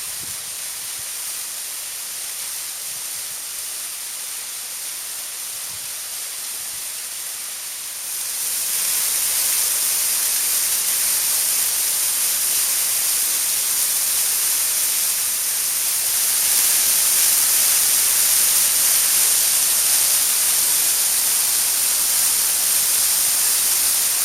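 Waterfall: a steady rush of falling water, a hiss strongest in the highs, growing louder about eight seconds in and again a little louder around sixteen seconds.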